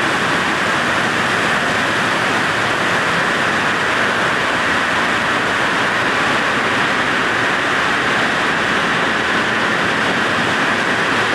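Heavy rain pouring down: a steady, very loud rush of rain noise that does not let up.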